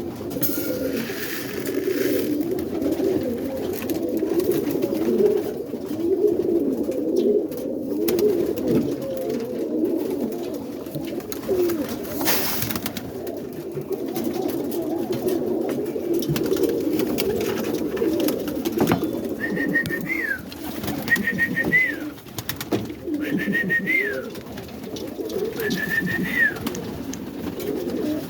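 A loft full of roller pigeons cooing together, a dense, continuous low cooing with a few sharp flaps or knocks among it. In the second half a short high call repeats four times, about two seconds apart.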